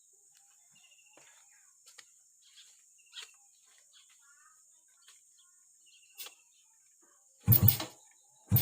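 Faint birds chirping over a steady high hiss. About 7.5 seconds in, and again right at the end, there are two short, loud, deep blasts from a Yamaha Jupiter motorcycle engine firing through its open CLD exhaust as it is started and blipped.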